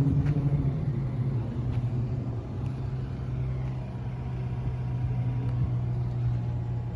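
Outdoor air-conditioning condenser units running: a steady low hum with rumble.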